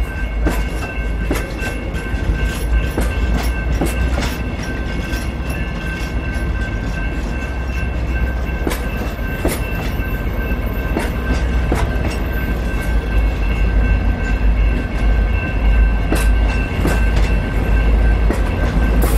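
Grand Canyon Railway train rolling by: a heavy steady rumble with irregular sharp clicks of wheels over rail joints and a steady high whine, growing a little louder toward the end.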